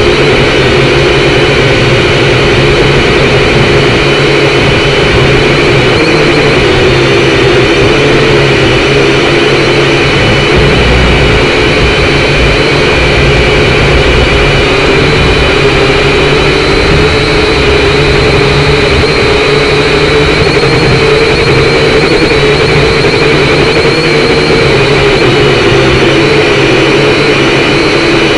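Syma X5C quadcopter's small brushed motors and propellers buzzing steadily in flight, with wind rumbling on the microphone.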